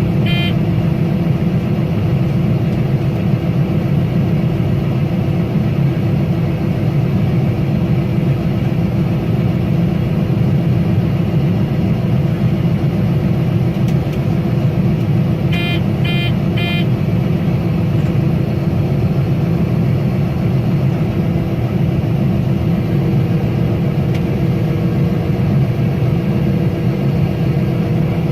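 Combine harvester running steadily while shelling corn. An electronic warning beep sounds in a quick group of beeps right at the start and again about sixteen seconds in.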